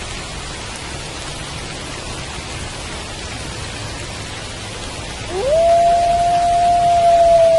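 Steady rain falling, with a wolf's howl starting about five seconds in: it rises quickly in pitch and then holds one long, level note.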